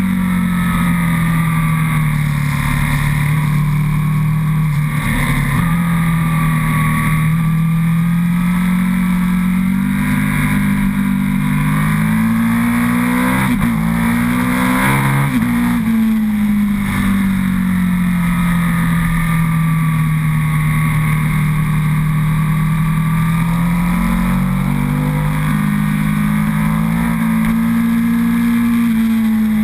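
Big-bore 1127 cc Aprilia Tuono's Rotax V-twin engine running under way. Its pitch rises and falls slowly and peaks briefly about halfway through.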